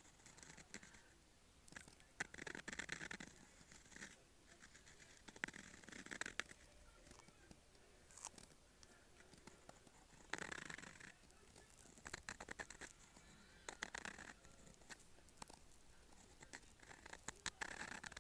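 Dip pen nib scratching across paper in short, irregular strokes, each a brief burst of scratchy noise with small ticks, separated by quiet pauses.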